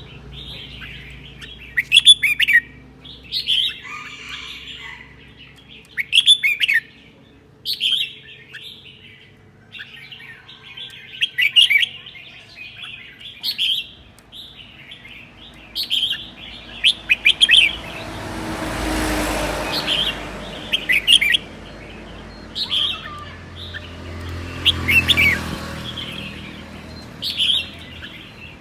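Red-whiskered bulbul singing, short bright phrases repeated every second or two. Twice, in the middle and near the end, a broad rushing noise swells and fades under the song.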